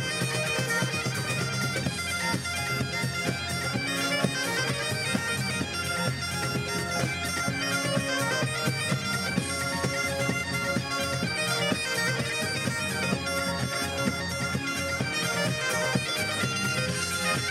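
Bagpipes playing a lively tune over their steady drones, with a regular beat from the band behind.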